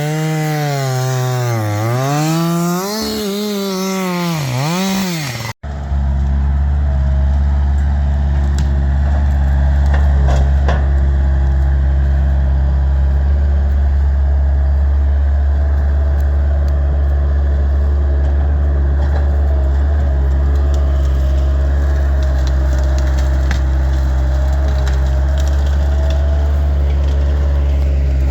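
A chainsaw revving up and down as it cuts for about the first five seconds. It cuts off abruptly and is followed by a steady, loud, low engine drone with a faint higher whine and scattered small wood cracks.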